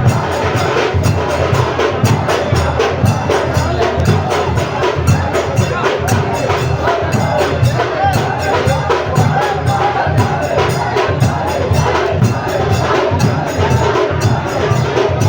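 Drums beating a fast, steady rhythm with crowd voices mixed in.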